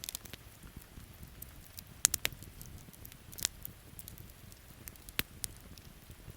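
Wood campfire crackling, with sharp pops, the loudest about two seconds in and again near five seconds, over a steady patter of thunderstorm rain.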